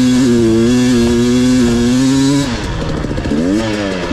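Two-stroke dirt bike engine held at high revs under load, a steady high note for about two and a half seconds, then the throttle comes off and it blips up and back down near the end.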